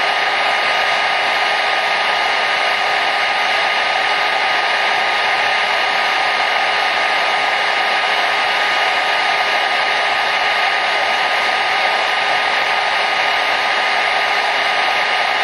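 Hair dryer running steadily: an unchanging whoosh of blown air with a faint motor hum under it.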